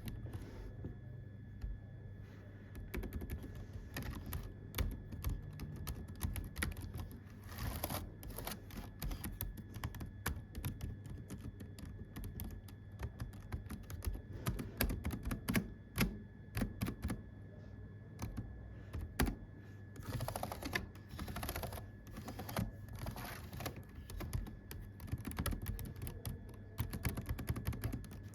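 Typing on a computer keyboard: irregular runs of key clicks and clacks, some stretches denser than others, over a low steady hum.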